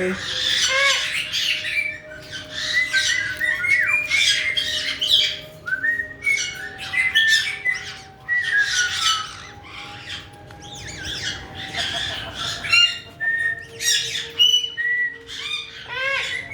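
Several caique parrots squawking and chirping almost without pause: harsh, screechy calls mixed with short whistled chirps.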